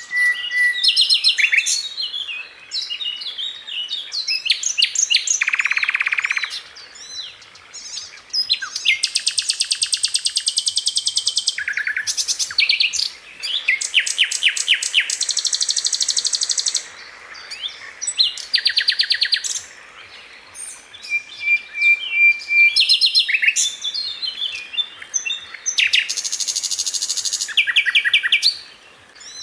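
Sikatan londo flycatcher singing in quick, tightly packed phrases of rapid repeated high notes and trills, each lasting a second or two, separated by short pauses.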